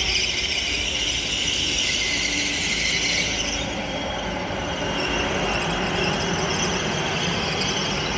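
Trenitalia Rock double-deck electric train rolling slowly through the station with a loud, high metallic squeal from its wheels and running gear. The squeal eases about three and a half seconds in, leaving a steady rumble of the wheels on the rails.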